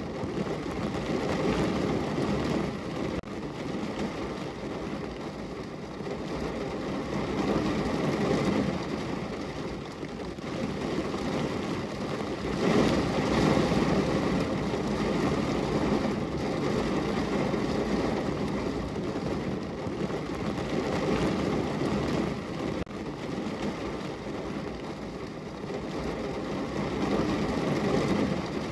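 Steady rain falling on a window, an even rushing noise that swells and eases, loudest about halfway through.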